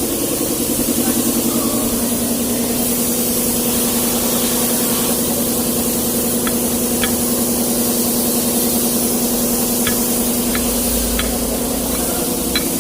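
An engine running steadily under a continuous hiss, with a few light ticks in the second half.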